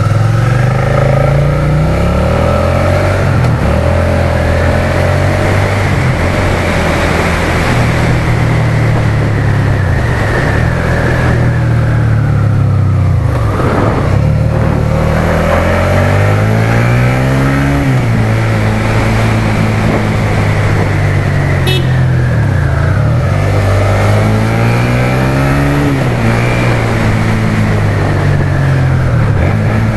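Suzuki SFV650's V-twin engine running under way, its pitch climbing as it accelerates and then dropping sharply at each gear change, a few times over.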